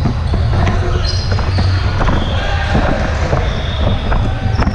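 Gym sounds of a volleyball rally: ball hits and thumps on the court, sneakers squeaking on the hardwood floor, and crowd chatter echoing in a large hall.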